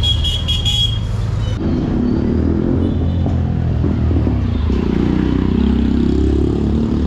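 Busy street traffic: motor vehicle engines running close by. A rapid, high-pitched pulsing tone sounds for about the first second and a half.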